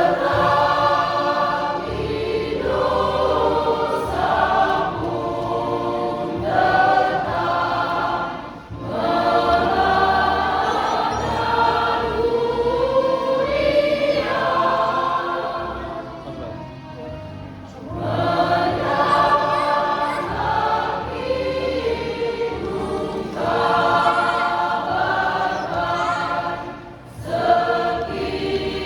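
Church choir singing a hymn in several voice parts, in long phrases with brief breaks between them.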